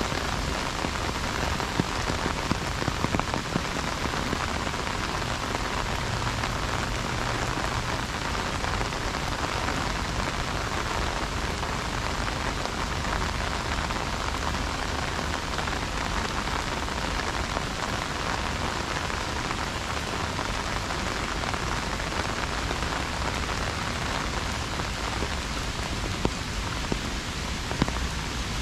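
Heavy rain falling on an umbrella overhead: a dense, steady hiss of drops, with a few louder individual hits standing out now and then.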